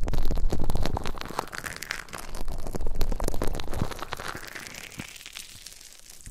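Close-up crackling and rustling of ASMR trigger sounds on a 3Dio binaural ear microphone, a dense run of small clicks that grows fainter over the last couple of seconds.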